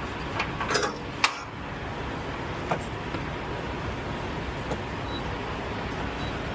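Truck-stop diesel fuelling: a few sharp clicks and clanks in the first second or so, then a steady rushing noise with a couple of faint ticks.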